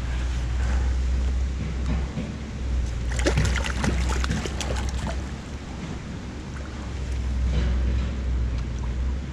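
Creek water running under a steady low rumble of wind on the microphone. About three seconds in, a flurry of splashes and knocks from a freshly landed wild brown trout thrashing.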